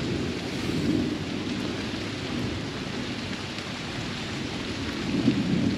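Heavy rain pouring down steadily during a thunderstorm, with a low rumble in the rain that swells slightly about a second in and again near the end.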